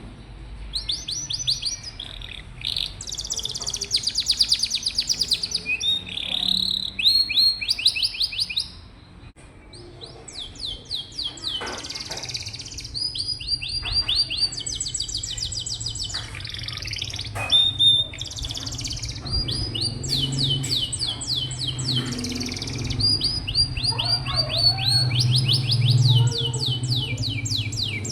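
Domestic canary singing a long, continuous song of rapid trills, each a fast run of repeated high chirps, with a brief lull about nine seconds in. A low steady hum runs underneath and grows louder in the second half.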